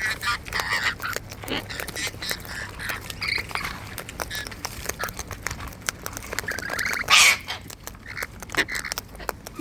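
Wild cockatoos and lorikeets feeding close to the microphone: chattering and warbling calls over many small clicks, with one loud harsh squawk about seven seconds in.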